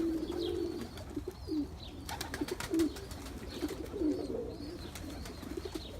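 Indian fantail pigeon cock cooing in a run of short, low coos, with a few sharp clicks about two seconds in.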